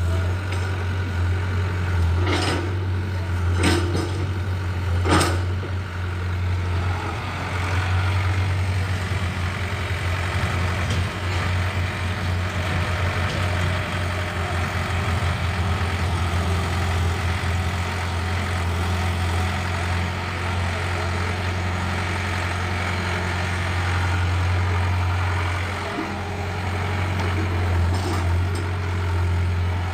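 Tractor's diesel engine running steadily with a deep, even hum. Three sharp knocks come in the first few seconds.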